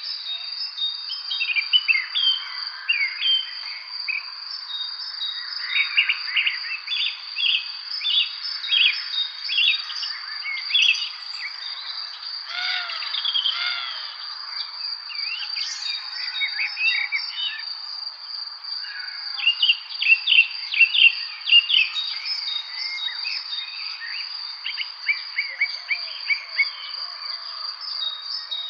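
Songbirds chirping and singing in quick, overlapping short notes, busiest in two spells: a third of the way in and again about two-thirds through. Under them runs a steady, unbroken high-pitched insect trill.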